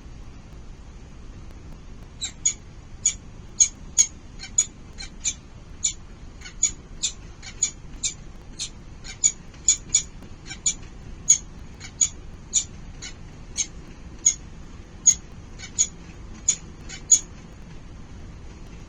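Falcon chicks in the nest giving short, sharp, high-pitched begging calls, about two a second, starting a couple of seconds in and stopping near the end, over a low steady background rumble.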